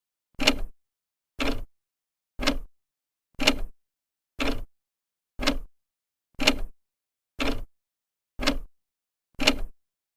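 Old clock's second hand ticking steadily once a second, each tick a short sharp click with a brief ringing tail and silence between ticks.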